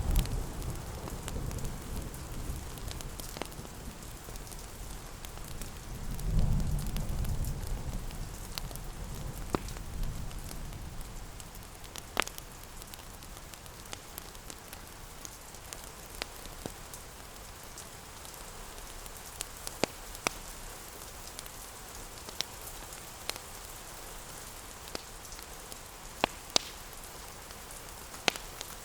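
Steady rain hiss, with scattered sharp pops and crackles of a wood fire. A low rumble swells about six seconds in and fades by ten.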